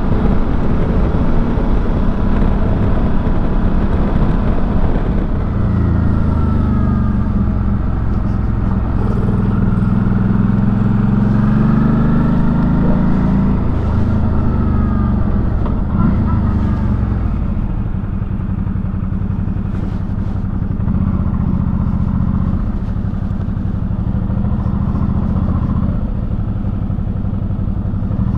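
Suzuki V-Strom 650's 645 cc V-twin engine running under way, heard from inside the rider's helmet over wind rush. Its pitch rises and falls with throttle and gear changes through the middle, then settles to a lower, steadier run as the bike slows near the end.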